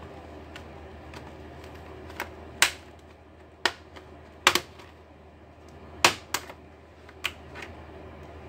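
Sharp, irregular plastic clicks and snaps as an Acer Nitro laptop's plastic casing is pried apart with a tool, about eight of them, a few in quick pairs.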